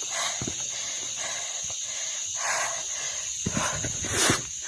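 A person breathing hard while climbing, with heavy breaths about once a second and the loudest breath near the end. Short footsteps and scuffs on rock come in between.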